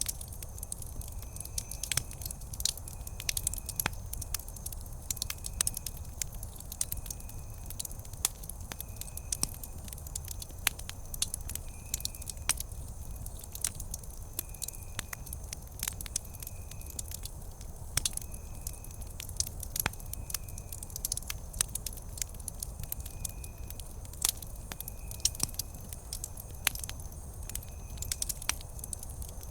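Wood campfire burning, crackling and popping irregularly with many sharp snaps over a low rumble. A faint, short high chirp repeats about once a second.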